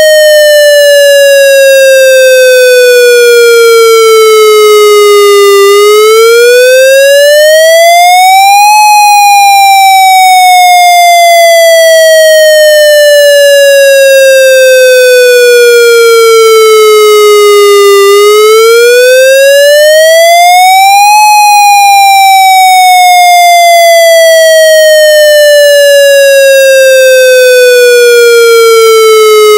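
Electronic wail signal of a Federal MCP siren, recorded straight from its output: a clean, buzzy tone rising and falling in a slow wail. Each cycle climbs quickly over about three seconds, then slides down slowly over about nine. The pitch peaks about 9 and 21 seconds in and bottoms out near 6, 18 and 29 seconds.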